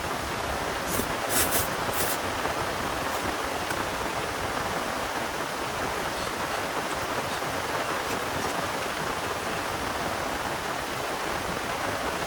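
Heavy rain falling steadily, a dense even hiss, with a few brief sharp ticks between one and two seconds in.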